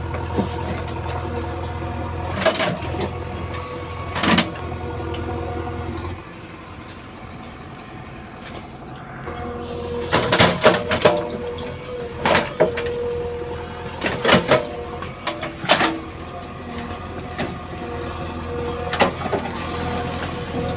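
JCB 3DX backhoe loader's diesel engine running steadily, easing to a lower, quieter note for a few seconds about six seconds in before picking up again. Repeated sharp clanks break in over the engine, bunched close together from about ten to sixteen seconds in.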